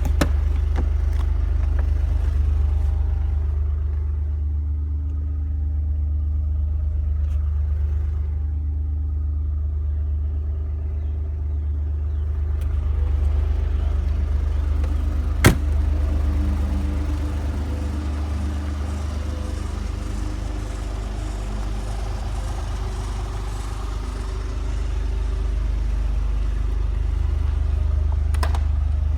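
Maserati Quattroporte V6 engine idling steadily, with one sharp click about halfway through.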